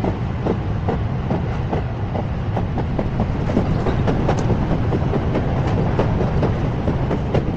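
Train running on the rails: a steady low rumble with irregular clicks of the wheels.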